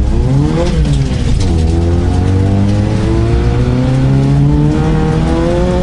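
Vauxhall Astra GSi rally car's engine heard from inside the cabin, revving up briefly then easing off about a second in, then pulling hard with its pitch climbing steadily for the rest of the time.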